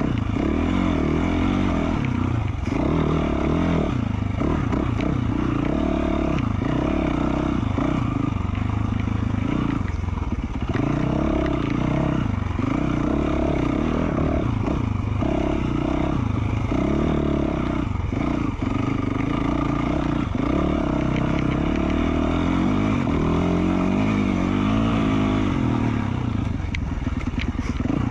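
2020 Yamaha YZ450F single-cylinder four-stroke dirt bike engine through an FMF Q4 slip-on exhaust, revving up and down over and over as the throttle is opened and closed while riding trail.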